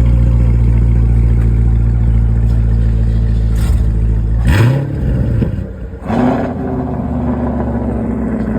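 Chevrolet C7 Corvette's 6.2-litre V8, heard close to its exhaust, idling loud and steady. It is revved sharply twice, about four and a half and six seconds in, then settles back to an even, higher-pitched running note.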